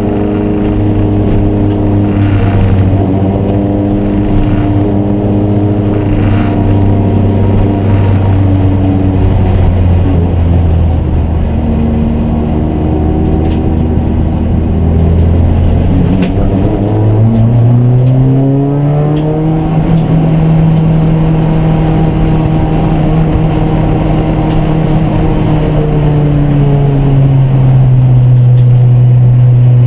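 Race car engine running loud at steady revs. About sixteen seconds in the revs drop away, then climb to a higher, steady pitch that eases down slightly near the end.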